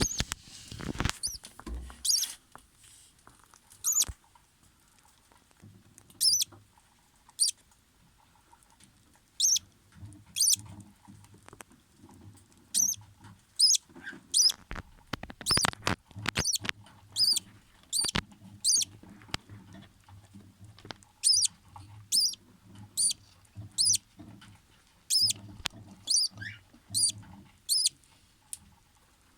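Newly hatched budgerigar chicks peeping: short, high, thin squeaks repeated every half second to a second, with a soft low sound underneath.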